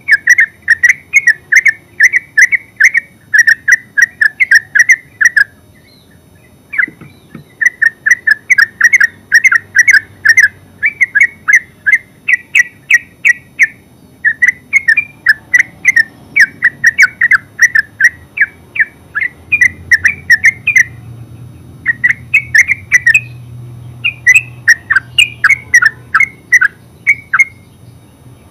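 Yellow-vented bulbul giving a rapid chattering call, short loud notes at about four a second in long runs with brief pauses.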